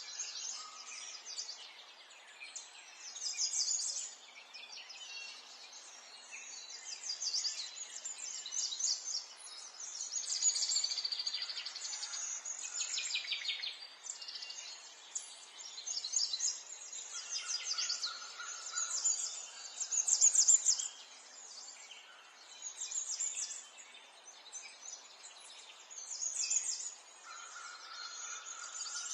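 Several small songbirds chirping and singing, with many quick, high trills and twitters coming and going over a soft, steady background hiss.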